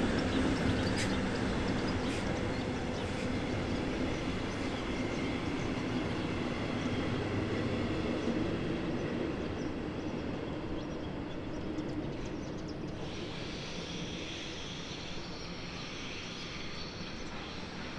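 An electric-locomotive-hauled train of double-deck coaches rolls over a railway bridge: a steady rumble of wheels on rail with a low hum and a few sharp clicks early on, slowly fading as the train moves away. Near the end a fainter, higher hiss joins in.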